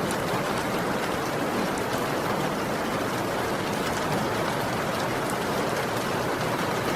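Heavy rain falling steadily, a dense even hiss with faint individual drop ticks through it.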